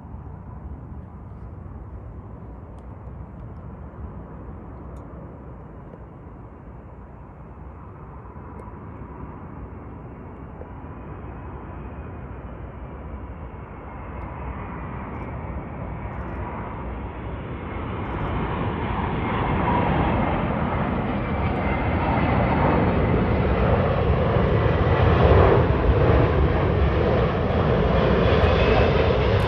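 Airbus A380's four jet engines on approach to land: a steady rumble with a faint whine, growing louder over about twenty seconds as the airliner comes closer.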